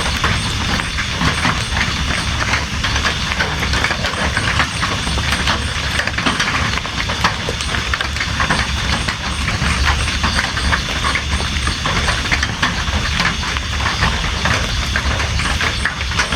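Steady heavy rain: a dense hiss of falling drops, with many sharp separate drop hits, over a constant low rumble.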